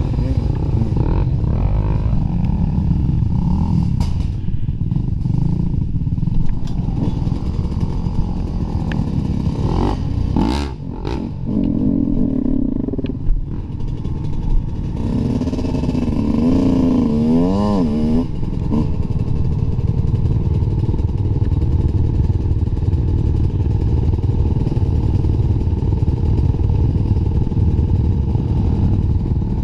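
Dirt bike engine running hard on a trail ride, with the pitch rising and falling quickly as the throttle is worked, about halfway through. A few sharp knocks come through early on.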